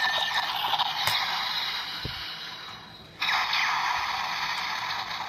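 A DX Musou Saber toy sword-gun in gun mode playing electronic firing sound effects through its small speaker: two harsh hissing blasts, each cutting in sharply and fading away, the second about three seconds in, with a plastic click of the trigger in between.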